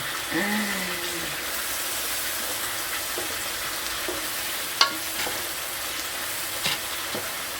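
Calamari strips frying in a pan with a steady sizzle, stirred with a utensil; a sharp tap of the utensil on the pan about five seconds in and a lighter one near the end.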